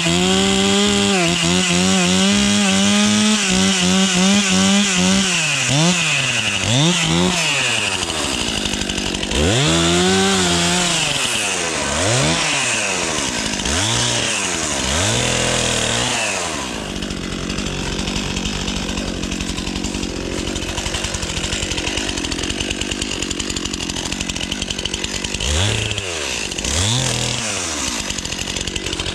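Chainsaw revving up and down as it cuts into dead spruce, its pitch repeatedly rising and dropping. About 17 seconds in it settles to a lower steady idle, with two short revs near the end.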